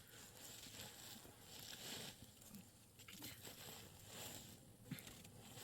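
Near silence with faint rustling and a few soft knocks, and one sharp click about five seconds in.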